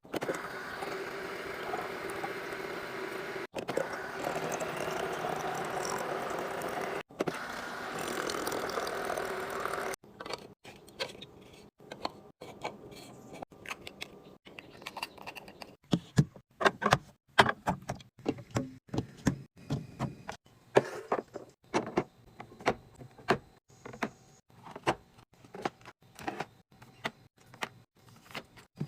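Steady rushing noise for about ten seconds, broken twice, then a long run of irregular clicks, clacks and knocks of food containers and packaging being handled and set down while a fridge is restocked.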